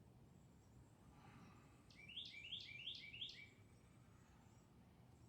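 A songbird singing faintly: a quick run of about five repeated notes in the middle, otherwise near silence.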